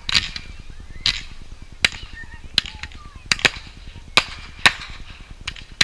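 Fireworks going off in a string of sharp, irregular bangs, about eight in six seconds, each with a short ringing tail, over a faint steady low rumble.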